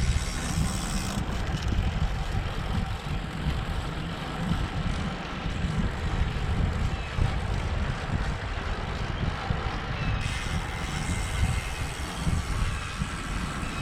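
Steady wind rumble on a GoPro's microphone while riding a road bike, with road and tyre noise underneath.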